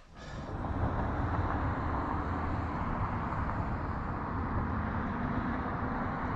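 Steady road and engine noise inside a moving car's cabin, fading in at the start.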